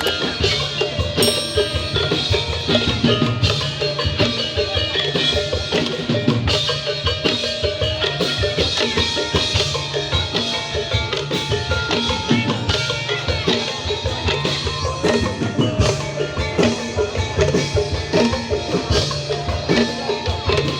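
Tongklek ensemble music: pitched bamboo and mallet percussion playing a steady, busy rhythm over drums.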